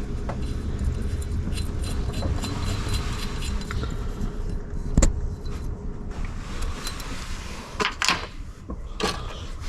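Metal hand tools and bolts clinking and knocking while work goes on around the engine's water pump pulley, with one sharp knock about halfway through and a few more clanks near the end, over a steady low rumble.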